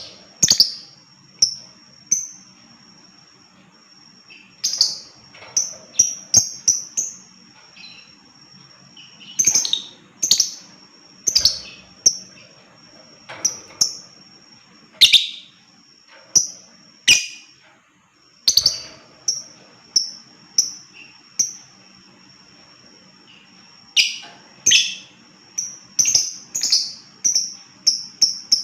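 Lovebird giving sharp, high-pitched shrill chirps in irregular clusters with pauses between them, quickening into a fast string of calls near the end.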